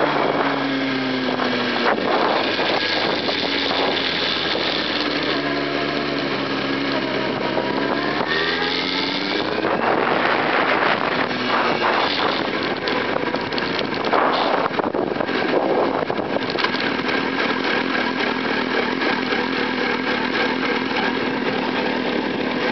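Sport motorcycle engine running while riding at low speed, with a buzzy note typical of a high-revving bike. Its pitch falls near the start, then climbs steadily as the bike accelerates about six seconds in, with louder rushes of engine and wind around the middle before settling to a steady cruise.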